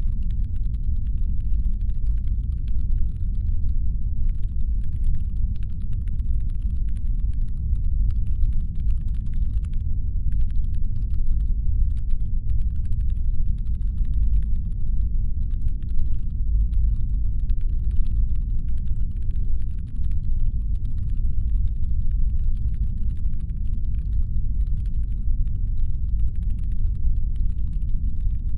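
Deep brown noise: a steady, low, even rumble made to stand in for a spaceship's engine hum, with faint, irregular fine clicking over it.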